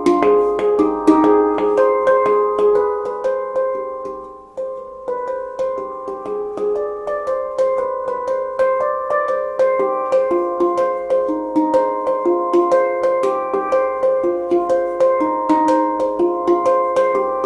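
Meraki handpan played by hand: a quick, rhythmic run of ringing struck notes in a scale with an Arabic flavour (G / C D Eb F G Ab B C D). Around four seconds in the notes die away briefly, then the playing starts again with a sharp strike and carries on steadily.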